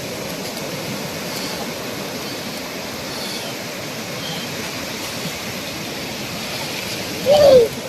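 Ocean surf: a steady rush of waves breaking and washing up the shore. Near the end, a short, loud voice calls out, falling in pitch.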